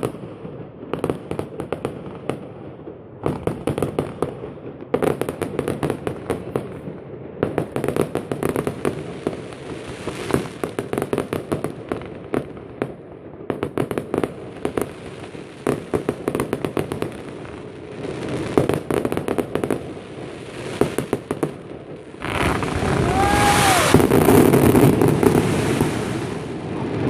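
Aerial fireworks bursting and crackling, a dense run of rapid pops and bangs. About 22 seconds in, a louder continuous rush of noise takes over.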